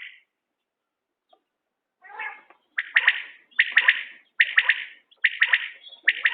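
Common quail calling: after about two seconds of quiet, a run of short phrases of quick, sharp notes repeating about every second.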